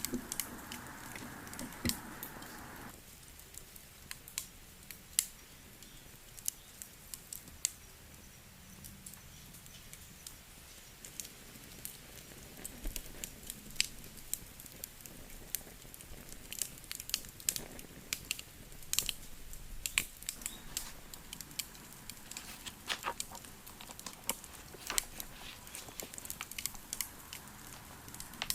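Wood fire crackling, with irregular sharp pops and snaps. A steady background noise underneath cuts off suddenly about three seconds in.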